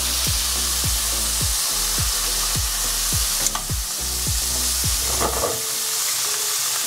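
Broccolini frying in butter in a hot pan, a steady sizzle, with a single sharp click about halfway through.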